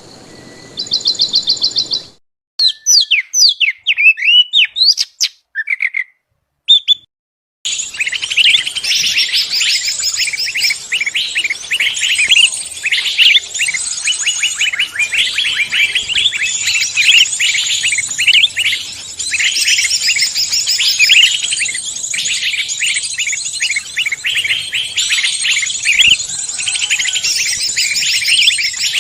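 Forest songbirds singing. First a fast trill of repeated notes, then single sliding whistled notes with pauses between them, and from about eight seconds in a dense chorus of many birds chirping together.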